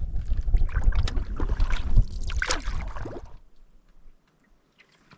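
Canoe paddling with wind buffeting the microphone, a steady low rumble broken by paddle knocks and splashes. It drops off suddenly about three and a half seconds in, leaving only a few faint ticks.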